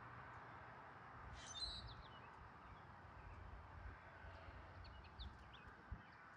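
Small birds chirping faintly at a feeder: one brief chirp about a second and a half in, then a few short high notes around five seconds in, over a faint steady background hum.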